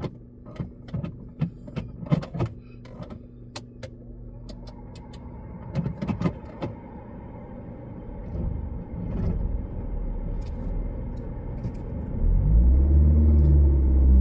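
Car engine running, with a few clicks and knocks in the first few seconds; the rumble grows, and near the end the engine revs up and back down, the loudest part. The car's gearshift has gone completely slack and will not engage a gear.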